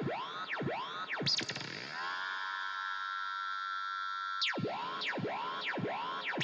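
Tape echo effect self-oscillating with the guitar strings untouched. It makes repeated swooping electronic pitch sweeps, about three every two seconds, that settle into a steady held tone for about two seconds midway, after which the swoops start again.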